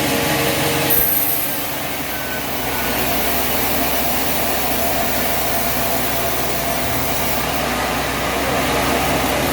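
A heavy engine running steadily, with a sudden change in the sound about a second in.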